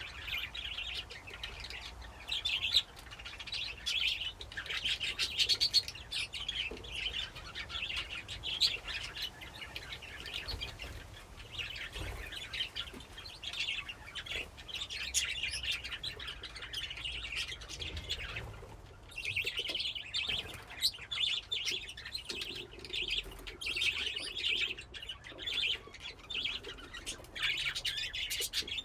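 A flock of budgerigars chattering and chirping continuously, many birds warbling over one another, with brief sharper clicks and a short lull about two-thirds of the way through.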